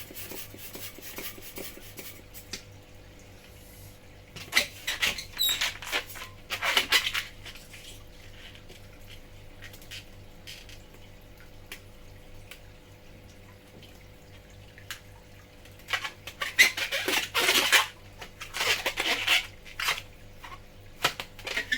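Long modelling balloon being handled and readied for twisting: rubbery squeaks and airy, rustling bursts in two clusters, one about four to seven seconds in and one about sixteen to twenty seconds in.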